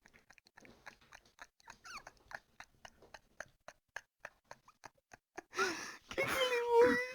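Faint quick clicks, about three or four a second, then an animal whining with a few rising and held cries near the end.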